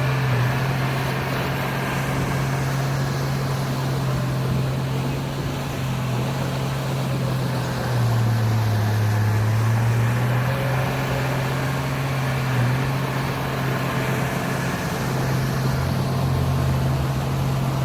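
Heavy diesel engine of earthmoving machinery running steadily with a low drone; about eight seconds in, the engine note drops and swells for a couple of seconds, as if under load.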